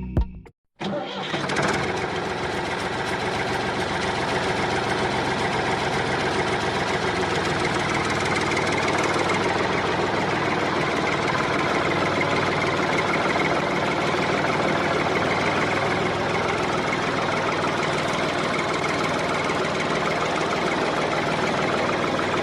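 Motor of a miniature DIY tractor water-pump model running steadily, starting abruptly about a second in after a brief gap and keeping an even, buzzing running note with rattle.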